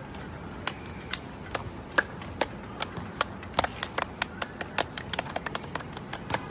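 A run of sharp clicks or taps: a few spaced ones at first, then quicker and irregular from about halfway through.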